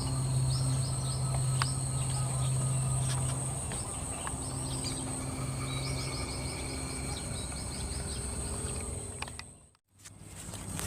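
Outdoor field ambience: a steady high-pitched insect drone with runs of short, quickly repeated bird chirps, and a low hum during the first few seconds. The sound briefly cuts out near the end.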